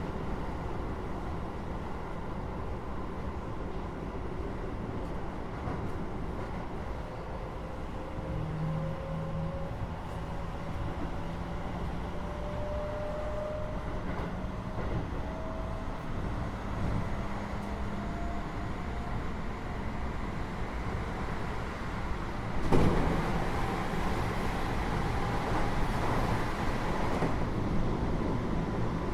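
Keio 8000 series electric train running, heard inside the car above its Hitachi GTO-VVVF main controller. A thin inverter-motor whine climbs slowly in pitch over the steady running rumble as the train gathers speed. About 23 seconds in, a sudden loud burst comes, and the running noise stays louder after it.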